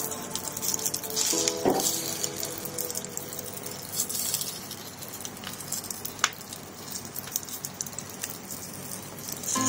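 Egg-and-oats omelette batter sizzling and crackling in hot oil on a tawa, with a few clinks of a metal spatula against the pan as it spreads the batter. Soft background music in the first two seconds or so.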